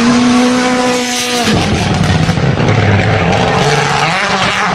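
Road vehicle sounds: a steady, slightly rising pitched tone lasts about the first second and a half and stops abruptly, followed by engine and road noise.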